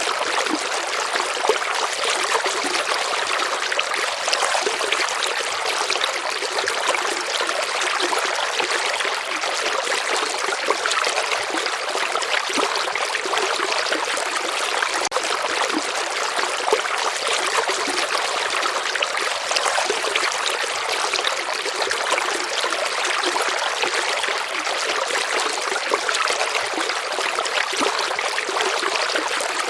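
A stream of water flowing steadily over stones, a dense, even rush of splashing and trickling with no low rumble.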